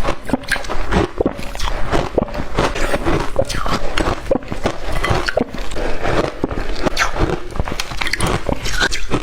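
Shaved ice being bitten and chewed, a continuous run of irregular crunches.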